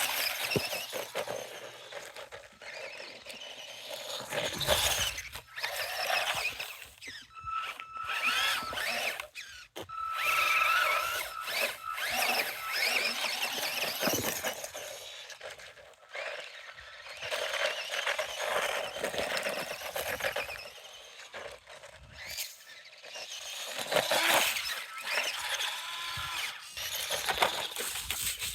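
Small RC truck's 290-size brushed electric motor and metal gears whining, rising and falling in pitch in surges as the throttle is worked, over a rough scrabbling noise.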